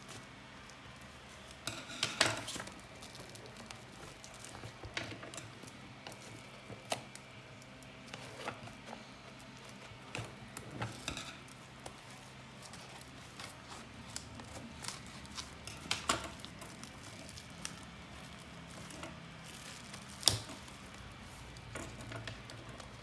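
Handling noises of a box and device being unpacked: scattered light clicks, taps and rustles, with sharper knocks about two seconds in and again near the end, over a faint steady low hum.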